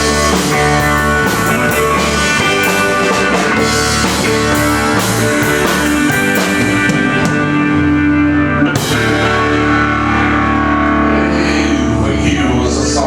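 Live band playing an instrumental passage, with guitar over bass and drum kit, cymbals ringing on the beat, and a sharp crash about nine seconds in.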